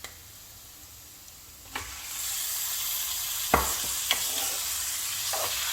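Raw chicken going into hot oil in a kadai: a loud, steady sizzle starts about two seconds in, with a few sharp knocks against the pan, the loudest a little after the sizzle begins.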